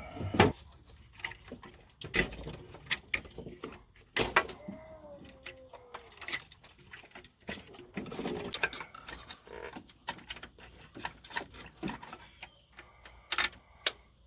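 Hand tools and loose metal parts clinking and knocking in irregular strikes, with a brief falling squeak about five seconds in.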